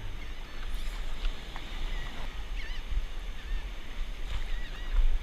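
Wind rumbling on the microphone and water washing around a stand-up paddleboard, with several faint, short, wavering high whines from a nervous border collie.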